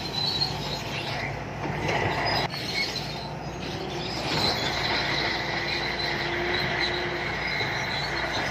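Shantui crawler bulldozer working, its diesel engine running steadily under a continuous high-pitched squealing from the steel tracks.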